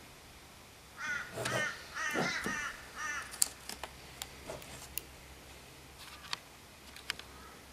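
A bird gives a quick series of about five harsh calls, starting about a second in. Light sharp clicks and taps follow as the plastic speedometer dial face is handled.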